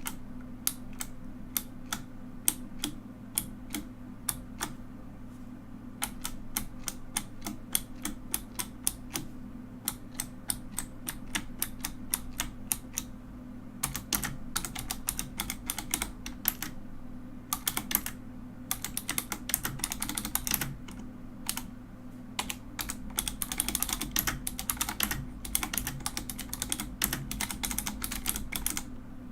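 Typing on a mechanical keyboard: a stream of sharp key clicks, scattered at first, then fast runs of keystrokes in the second half.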